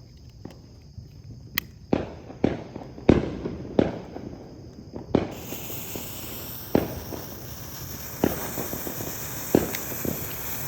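Loud, irregular firecracker pops, about a dozen of them. About five seconds in, a steady hiss starts suddenly as the lit smoke bombs catch and start pouring smoke.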